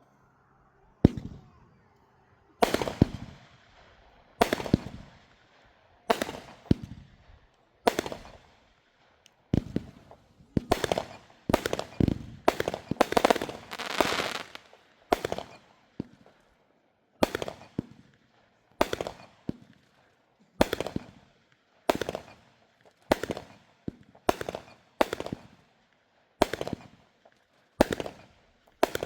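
Consumer fireworks going off in a steady string of sharp bangs, about one to two a second, each followed by a short crackle, coming thickest in a rapid cluster around the middle.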